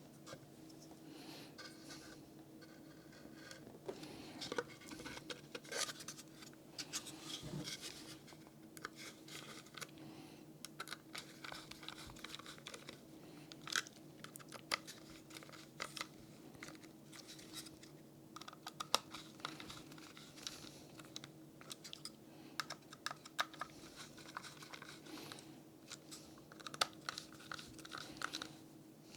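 Scattered small clicks, taps and crinkly rustles of hands handling toggle switches, cables and parts while assembling a switch box, over a steady low electrical hum.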